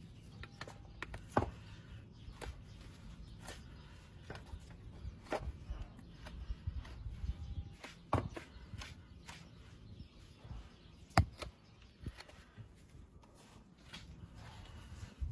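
Irregular sharp clicks and scrapes of hoof-care tools working on a horse's hoof, over low handling rumble. The two loudest knocks fall about a second in and again near three-quarters of the way through.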